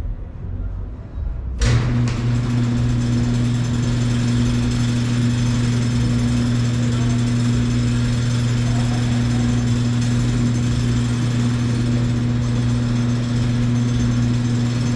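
A truck engine comes on abruptly about one and a half seconds in and then runs steadily with an even low hum.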